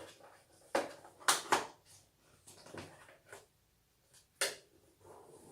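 Handling noise from laundry detergent packaging: a series of sharp plastic clicks and knocks with light rustling between them.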